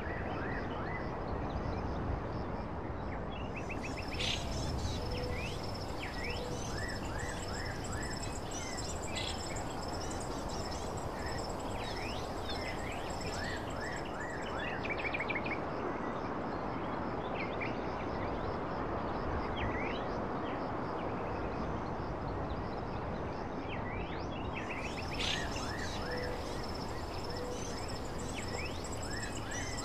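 Nature ambience: many short bird chirps and a high, steady insect-like drone that comes and goes, over a constant rushing background noise.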